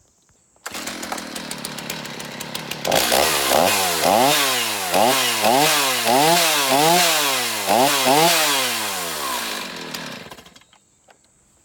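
Stihl MS250 two-stroke chainsaw running after repair of its cracked fuel tank: it catches and idles, is revved up and down about once a second several times, then winds down and stops.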